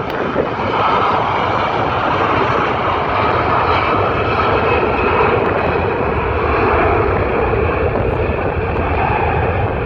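Jet airliner engines running loud and steady, a continuous rush with a whine in it, swelling slightly about a second in.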